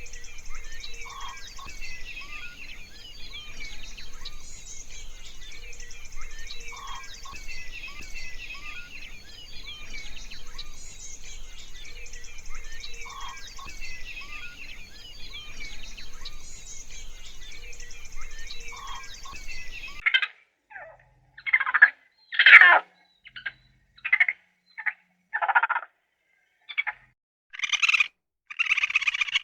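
A dense chorus of high animal chirps and calls, its pattern repeating every few seconds, cuts off about twenty seconds in and gives way to a series of loud, separate animal calls with short silences between them.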